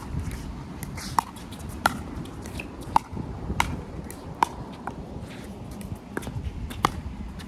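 Pickleball paddles striking a plastic ball in a doubles rally: sharp pops about once a second, traded back and forth, over wind rumble on the microphone.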